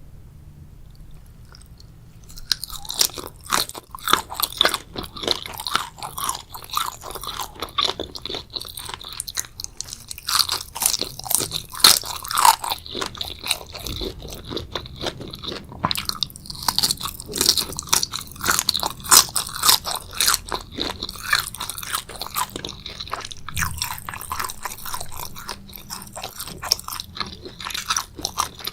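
Close-miked chewing and biting of food, with dense, crisp, wet crunches coming thick and irregular from about two and a half seconds in.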